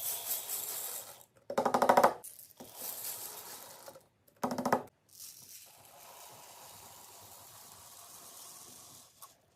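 Food containers and packaging handled while a fridge is restocked: two short, loud rattling bursts, then a fainter steady hiss for about four seconds.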